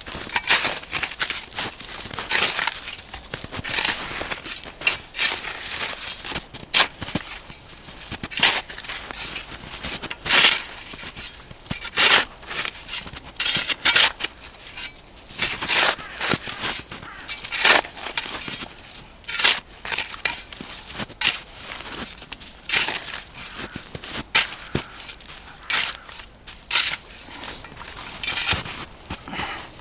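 Small compact shovel digging and scraping snow, each scoop a crunching scrape, repeating about every second and a half to two seconds as a patch is cleared down for a campfire.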